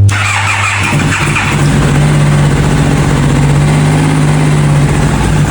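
Freshly rebuilt motorcycle engine running at a steady speed, its pitch firming up slightly about one and a half seconds in.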